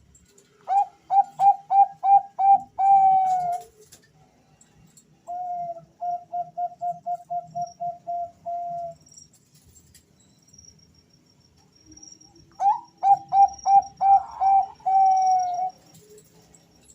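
Male zebra doves (Bangkok-strain perkutut) cooing back and forth. There are three phrases, each a quick run of short staccato coos ending in a longer held coo. The middle phrase is quieter than the two louder ones on either side.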